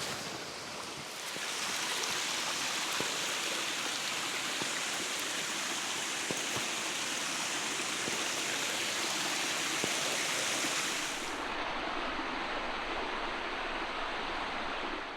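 Water rushing steadily down a beck over small waterfalls. It grows fuller about a second and a half in, and turns duller and lower near the end.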